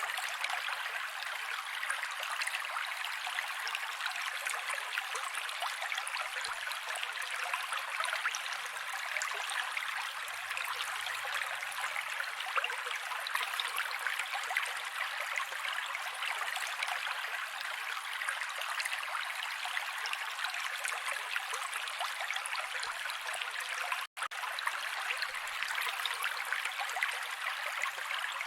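Mountain creek water running steadily over rocks, an even rushing with a fine babble, with no deep low end. A split-second gap about 24 seconds in, where the sound drops out and comes straight back.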